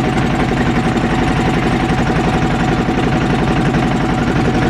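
Motorboat engine running steadily, with an even, rapid chugging.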